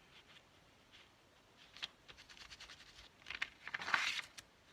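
Quiet handling of paper and a plastic stencil on a craft table: a few faint clicks and taps, then about a second of rustling and scraping near the end as the stencil is worked against or lifted off the paper.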